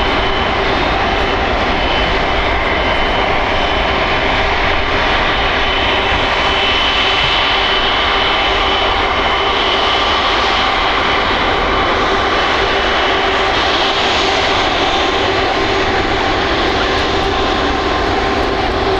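Airbus Beluga A300-600ST's turbofan engines running, a loud steady jet noise with a constant high whine.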